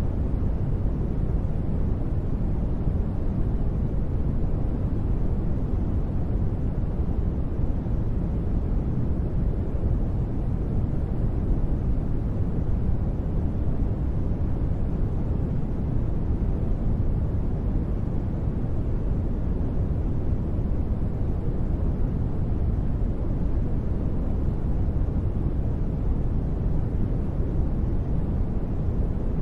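Steady, unbroken sleep noise sold as white noise, deep and low-heavy with little high hiss. It has no rhythm and no changes.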